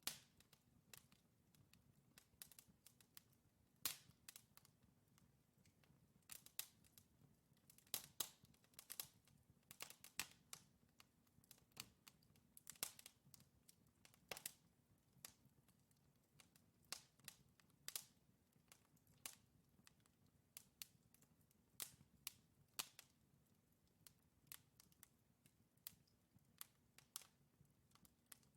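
Wood fire burning in a fireplace: irregular crackles and sharp pops from the logs, several a second at times, over a soft steady low rumble of the flames.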